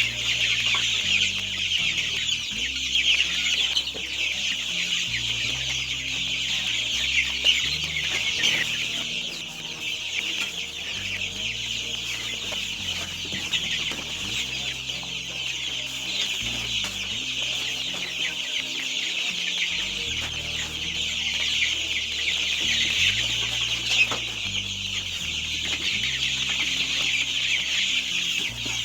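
A flock of young chicks peeping continuously, a dense high-pitched chatter of many birds at once.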